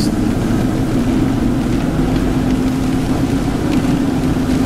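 Car driving on a wet road, heard from inside the cabin: a steady engine drone and tyre noise, with rain on the windshield.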